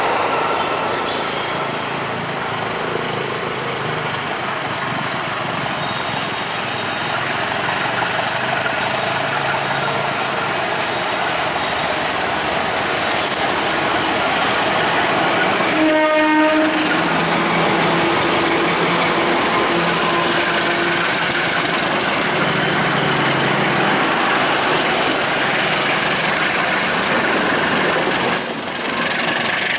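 Diesel locomotive hauling a rake of passenger coaches past at close range: steady engine and wheel-on-rail noise, with one short horn blast about halfway through.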